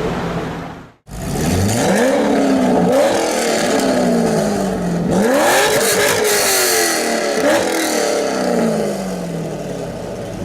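Corvette V8 being revved hard after a cut about a second in. The engine note climbs steeply and then falls away slowly, twice, with a shorter third blip of the throttle near the end.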